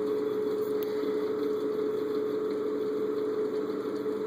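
Arvin Heat Stream 1500-watt fan-forced space heater running. Its small fan motor gives a steady hum over a constant rush of air.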